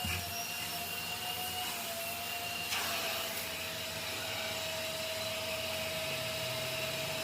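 A machine running with a steady whine over a rushing hiss. The pitch steps down slightly about three seconds in.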